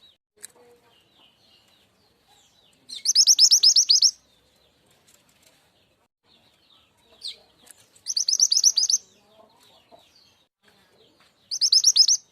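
Call of the mantenan gunung (truntung weru): a loud, fast trill of sharp high notes about a second long, given three times with faint chirps in between, as played as a lure call to draw wild birds in.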